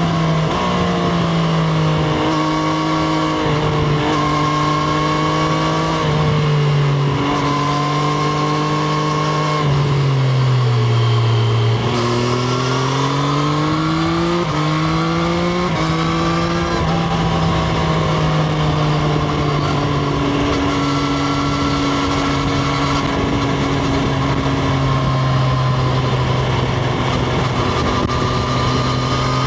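Triumph Street Triple RS's inline three-cylinder engine running under way, heard from onboard: its pitch rises and drops in short steps through gear changes, falls to its lowest about eleven seconds in as the bike slows, climbs again through a couple of upshifts, then holds a steady cruise for the second half.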